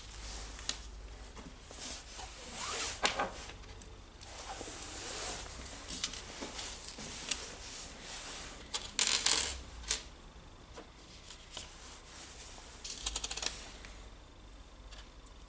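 Small metal parts and tools of a Makita DHR202 rotary hammer clicking and clattering as they are handled and fitted during reassembly, with louder rattles about three seconds in and around nine seconds, and a quick run of clicks near the end.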